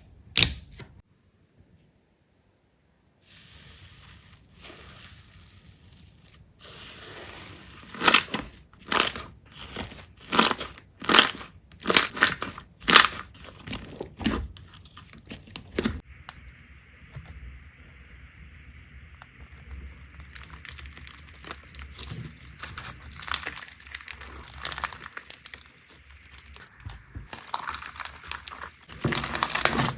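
Crunchy slime being squeezed and pressed by hand, crackling and popping. After a short quiet gap near the start come about a dozen loud crunches, roughly two thirds of a second apart, then quicker, softer crackling that grows louder near the end.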